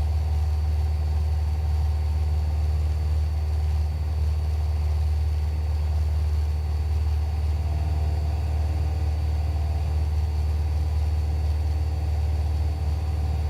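Cessna 172's piston engine and propeller running at steady power on the downwind leg, a constant low drone heard inside the cabin.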